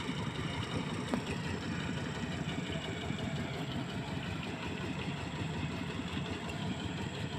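Small tractor's engine running steadily, with a rapid even beat.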